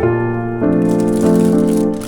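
Calm solo piano background music, slow, held chords changing about every half second to a second.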